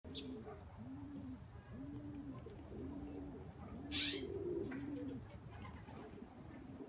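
A bird cooing: low, arched coos repeated about once a second. A brief hissing rustle, the loudest sound, comes about four seconds in.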